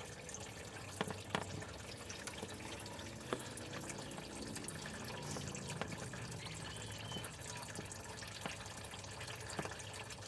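Engine coolant draining out of a pickup's opened radiator drain plug in a steady trickle into a bucket, with scattered drips.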